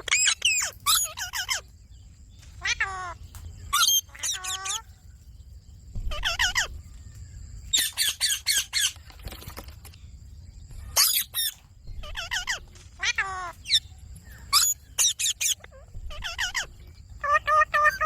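Indian ringneck parakeet giving short, high squawking calls in quick repeated bunches, every second or two.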